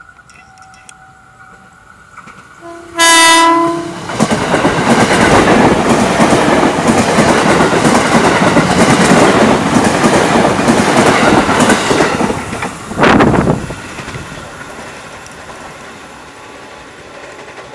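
KRL Solo–Jogja electric commuter train sounds one short horn blast about three seconds in, then runs past close by with loud rail noise and wheels clattering over the rail joints. A brief loud blast of noise comes about thirteen seconds in, and the rumble then fades as the train moves away.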